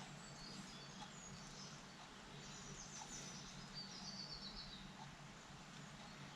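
Faint birdsong, a few short chirps then a run of twittering in the middle, over a low steady background hum, with a few tiny clicks.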